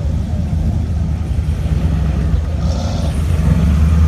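Car engine and exhaust running with a steady low rumble.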